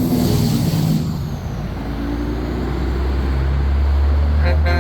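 Heavy trucks passing with a steady low engine rumble. There is a burst of air hiss in about the first second, and a truck horn starts sounding just before the end.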